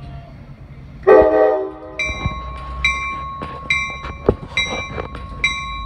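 An Amtrak passenger train's horn gives one short blast about a second in. Then the locomotive bell rings steadily, about once a second, over a low engine rumble.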